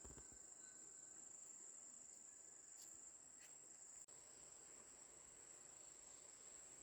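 Insects trilling: one faint, steady, high-pitched tone, broken for an instant about four seconds in.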